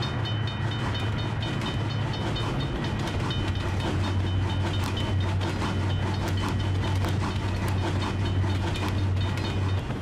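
Train sound effect of a passing train: a steady low rumble with wheels clicking over rail joints. A regularly pulsing high ringing tone sounds at first and fades out about two and a half seconds in.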